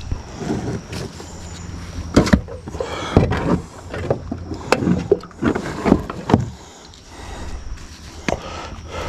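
Kayak being paddled through shallow water: irregular wooden-sounding knocks and splashes of the paddle, several strokes a few seconds apart.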